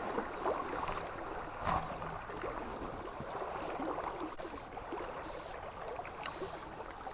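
River water running, a steady rushing noise, with a few small knocks or splashes, the loudest one about two seconds in.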